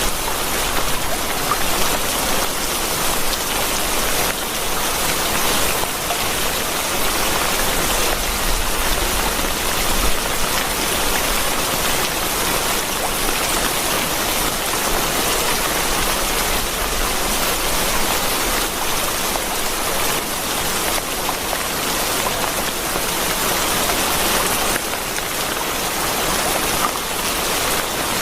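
Steady rainfall: an even, unbroken hiss with faint scattered drop impacts, holding the same level throughout.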